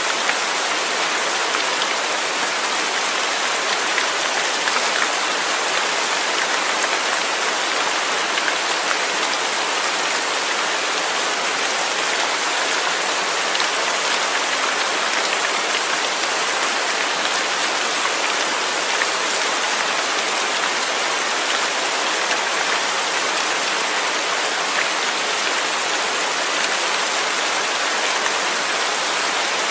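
Steady rain falling, an even hiss of many drops with small individual drop ticks scattered through it.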